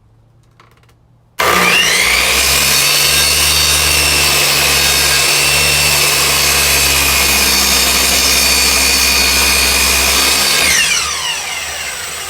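Electric miter saw switched on suddenly about a second in, running at full speed with a steady high whine while it trims a thin shaving off a wooden board. Near the end it is released and winds down, its whine falling in pitch.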